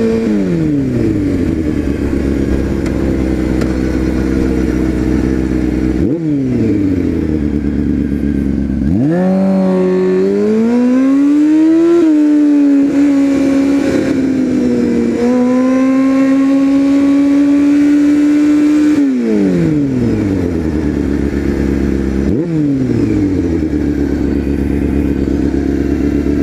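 Motorcycle engine under way, its pitch falling as it rolls off and slows near the start and again about six seconds in. It climbs as it accelerates about nine seconds in, holds steady while cruising, then falls twice more near the end.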